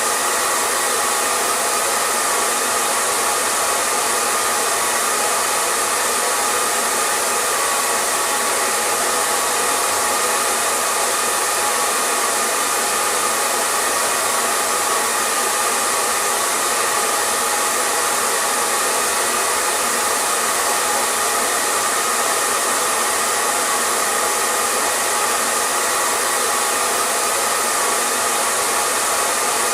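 Electric hair dryer running steadily: a constant blowing hiss with a faint steady whine in it, unchanging throughout.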